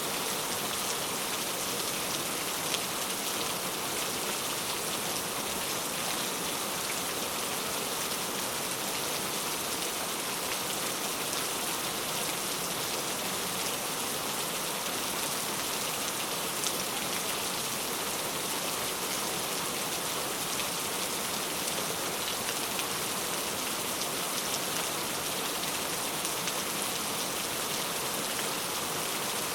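Steady rain falling, an even hiss of rainfall with faint scattered drop ticks.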